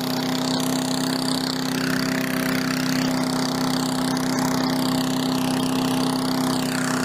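Walk-behind lawn mower engine running steadily at a constant speed, its hum holding one even pitch.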